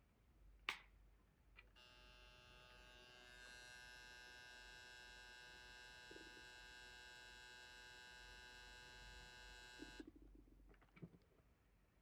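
A click, then a faint, steady electrical buzz from a Fujifilm GF 100-200mm lens, starting about two seconds in and cutting off suddenly after about eight seconds. The buzz is a recurring fault of this lens when the camera is switched off or enters playback, which a factory repair did not cure.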